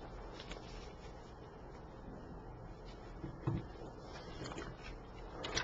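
Quiet room tone with a steady faint hiss and a few soft, brief knocks or rustles.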